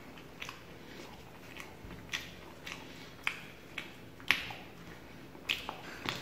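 A person chewing close to the microphone, with irregular sharp mouth clicks and smacks about every half second. The loudest comes a little past the middle.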